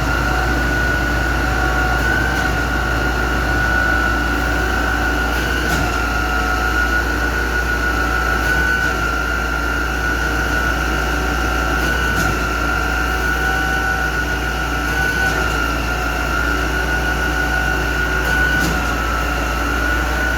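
Heavy machinery running steadily: a low engine rumble under a constant high whine, with a few faint knocks.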